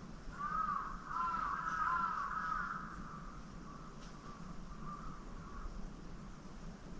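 Bird calls: a quick run of short, arching notes, several overlapping, loudest in the first three seconds, then a few fainter ones trailing off.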